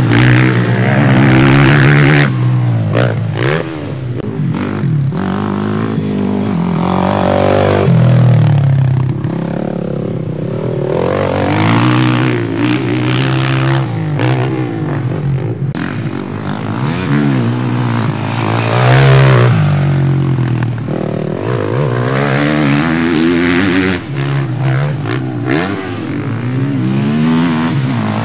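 Several motocross bikes racing on the track, their engines revving up and falling back again and again through the gears, several at once.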